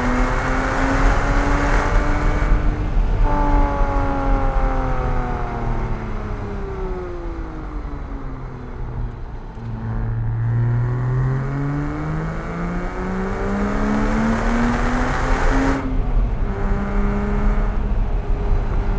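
Porsche 987.1 Cayman S's 3.4-litre flat-six pulling hard: the engine note rises, drops at a gear change about three seconds in, then falls away slowly off the throttle. From about ten seconds it climbs again, with another shift near the end.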